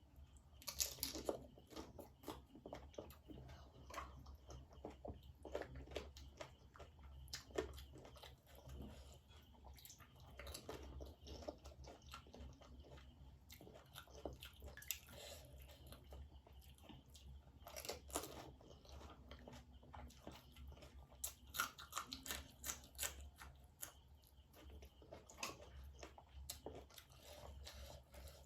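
Close-up eating sounds of panipuri: crisp puris crunching between the teeth and wet chewing, in irregular bursts with several sharper crunches, over a low steady hum.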